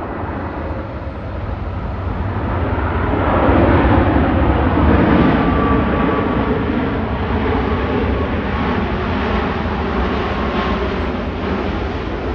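Boeing 737-8 MAX jet airliner's CFM LEAP-1B engines on landing, a steady rush that swells to its loudest about four seconds in and then slowly fades.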